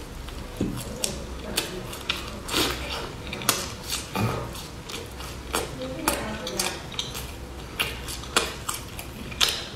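Crisp crunching and chewing of a puffed-grain bar, close to the mouth: irregular sharp crackles, several a second.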